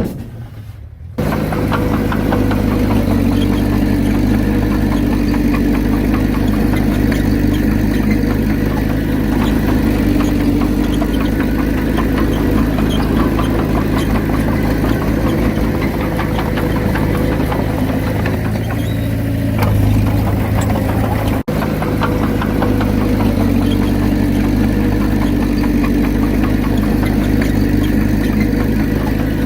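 Komatsu D31P bulldozer's diesel engine running steadily, a low drone with a rough, knocking edge. It comes in abruptly about a second in, after a quieter moment, and drops out for an instant about two-thirds of the way through.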